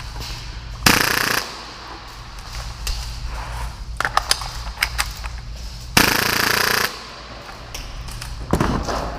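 Full-auto Tokyo Marui Hi-Capa airsoft pistol firing at about 30 rounds per second in two short bursts: a half-second burst about a second in and a longer one, just under a second, about six seconds in. Scattered sharp clicks and ticks come between the bursts.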